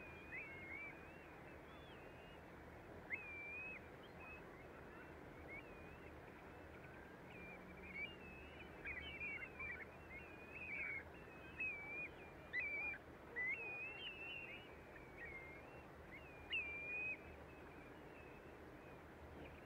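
Birds calling: many short, clear, whistled calls that come thickest in the middle stretch, over a faint, steady background.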